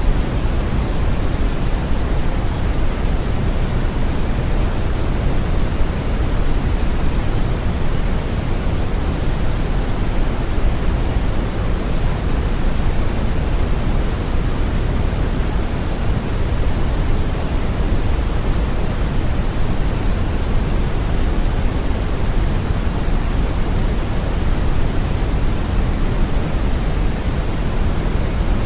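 Steady synthetic brown noise: a deep, even rushing hiss, strongest in the low end and falling off toward the highs, with no changes or events.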